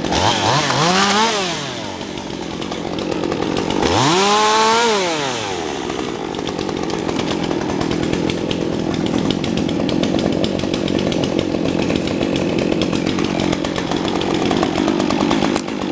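Gasoline chainsaw revved up and let back down twice, each rev rising and falling over about two seconds, then running steadily.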